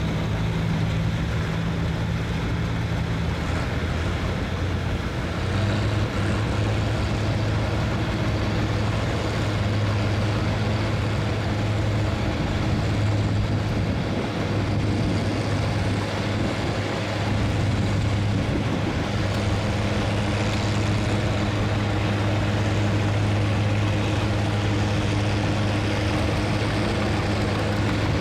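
Farm stock pulling tractor's engine running steadily, its low note shifting about five seconds in.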